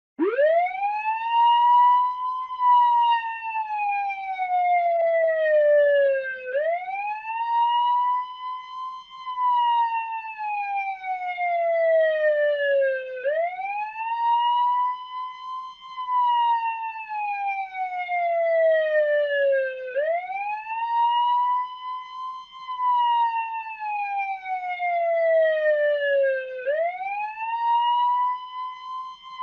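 Retro-style police car siren wailing. It starts suddenly, sweeps quickly up to a high pitch, falls slowly, then sweeps up again, a cycle about every six and a half seconds.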